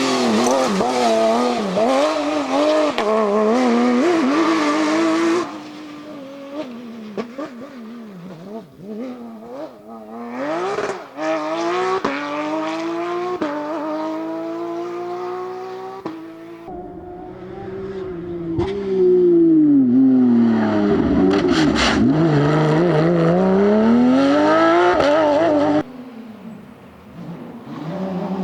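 Porsche 911 GT3 rally cars' flat-six engines at full throttle, revving up through the gears with gear changes, in a series of separate passes. In one pass the engine note drops steeply and then climbs again as the car brakes and accelerates away.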